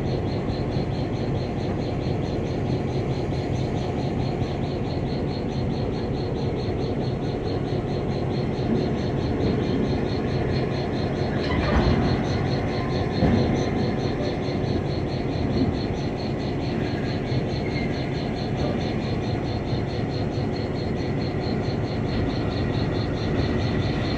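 Train rolling slowly behind an ex-army EMD GP7 diesel locomotive: a steady rumble of the engine and wheels on the rails, with a fast, even high-pitched pulsing over it.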